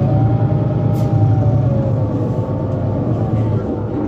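Mercedes-Benz Citaro C2 city bus with a Euro 5 diesel, running under way: a steady low engine drone with a whine whose pitch rises and then slowly falls. A short hiss comes about a second in.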